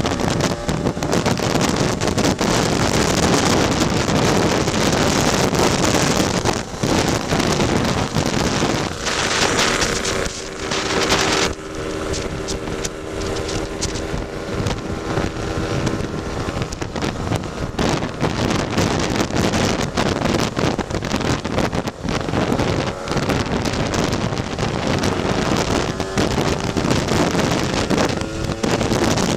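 Tuned Lambretta scooter's single-cylinder two-stroke engine running on the road, largely buried under heavy wind buffeting on the microphone. From about ten seconds in, the engine's hum comes through more clearly for several seconds.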